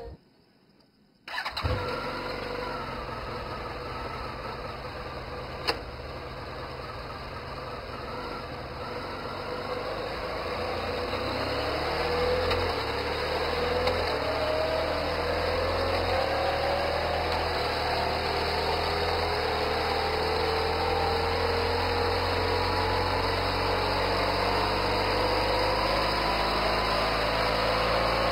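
A Honda motorcycle engine starts just over a second in, then runs steadily, its pitch rising slowly through the second half.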